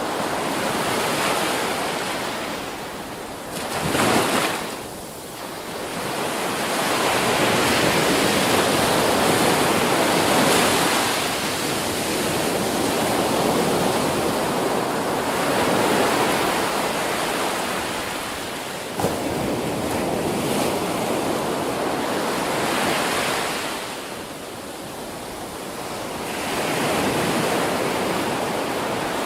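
Ocean surf breaking and washing up a beach, the rush of water swelling and fading every few seconds, with a brief louder rush about four seconds in.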